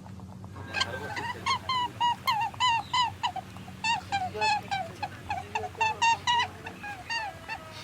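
Farmyard fowl calling: a rapid run of many short calls, each rising and falling in pitch, several a second.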